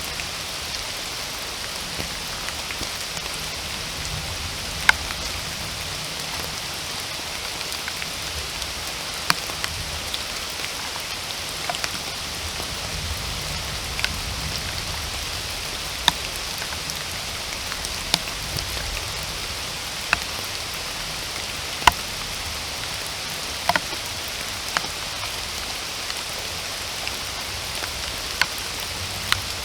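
Steady rain falling on a forest, an even hiss, with about a dozen louder single drops landing close by at irregular intervals.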